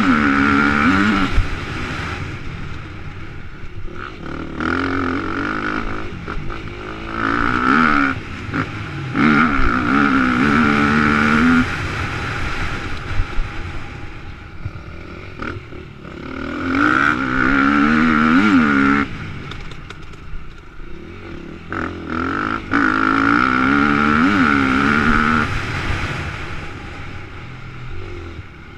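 Motocross bike engine revving hard and backing off in repeated surges, its pitch climbing through each gear and dropping as the throttle is shut, as on jumps and corners. Heard from a helmet-mounted camera, with wind rush.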